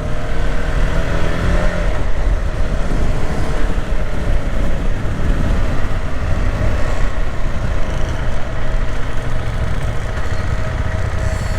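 KTM 390 Adventure's single-cylinder engine running under way, mixed with steady wind noise over the microphone.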